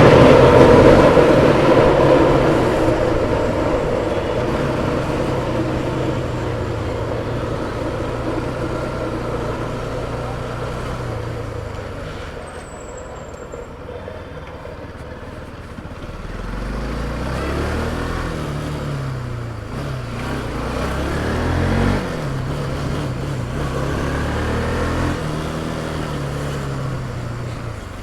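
Motorcycle engine running on the move, with road and wind noise. From a little past halfway, the engine speed rises and falls again and again as the rider accelerates and shifts gears.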